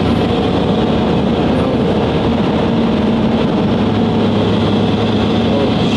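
Car engine and road noise heard from inside the cabin while driving at a steady speed. A low, even rumble with a steady engine tone throughout.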